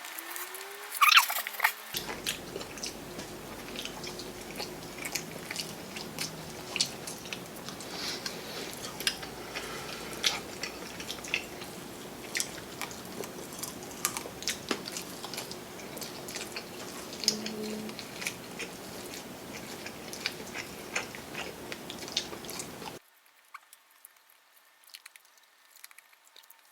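Close-up mouth sounds of eating: chewing and biting with many small wet clicks and crackles, a louder crunchy cluster about a second in. The sound drops to near silence about three seconds before the end.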